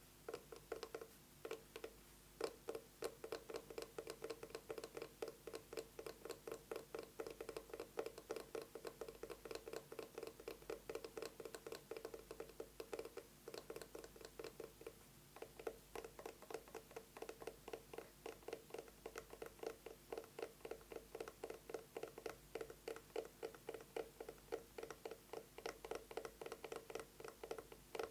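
Fast fingernail tapping on an eyeglasses case: a rapid, even stream of light clicks with a hollow ring to them, which thins out briefly about halfway through.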